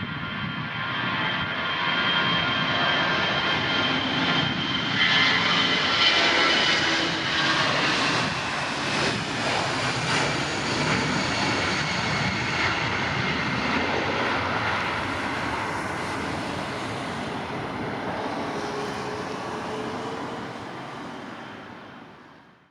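Jet engines of an Air France Airbus airliner at takeoff power: a loud, steady rush with a high whine over it, loudest about six seconds in, then slowly fading as the aircraft climbs away, dying out at the very end.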